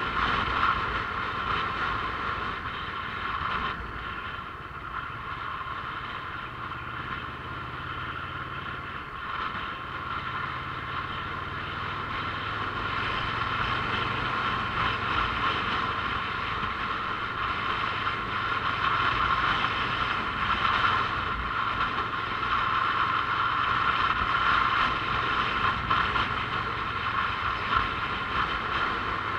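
Motorcycle running steadily while being ridden, a constant engine note that gets a little louder about halfway through.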